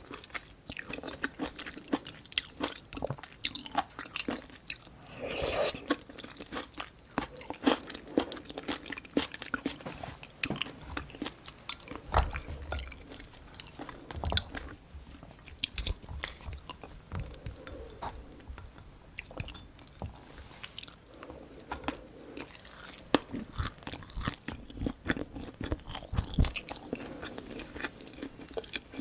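A person chewing and eating close to the microphone: steady wet chewing with frequent crunches and sharp clicks, and a few dull low knocks.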